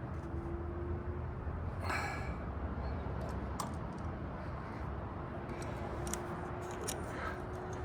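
Small clicks and knocks of hand work on the carburetors and rubber intake boots of a motorcycle, with a brief squeak about two seconds in, over a steady low hum.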